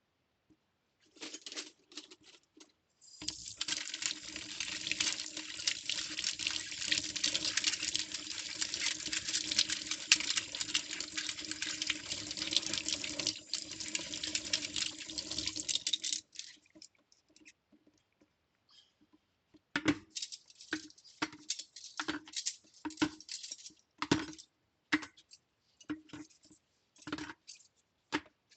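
Kitchen tap running steadily into the sink for about thirteen seconds, then shut off. Afterwards, cutlery clinks and knocks against itself and the sink at roughly one-second intervals.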